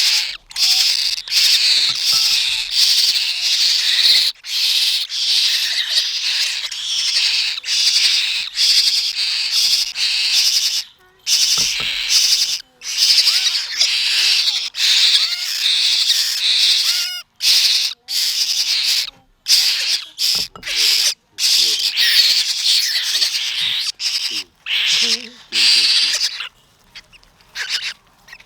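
Hungry bird chicks begging at feeding time: loud, harsh, high-pitched calls repeated rapidly, with a few brief pauses, tailing off near the end.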